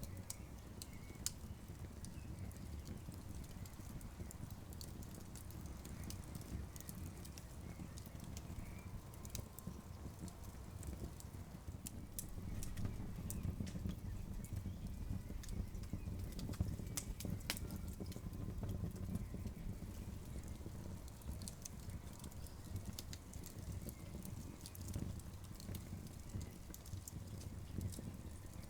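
Campfire crackling, with sharp pops at irregular intervals over a steady low rumble.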